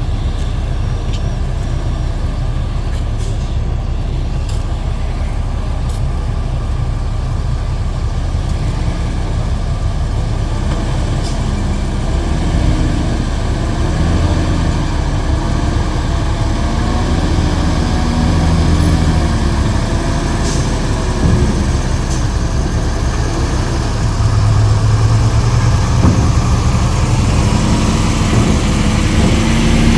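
Heavy diesel truck engines running and revving as trucks are driven off a ferry, over a constant low rumble. The engine note rises and falls, and grows louder in the last several seconds as a truck comes close.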